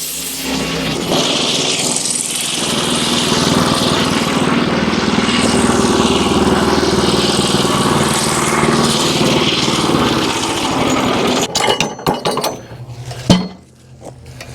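Wood-Mizer LX25 sawmill's small petrol engine running steadily, breaking off about eleven seconds in, followed by a few clattering knocks and one sharp knock near the end.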